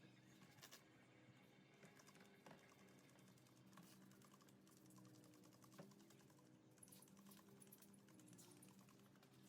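Near silence, with faint scattered light clicks over a faint steady low hum.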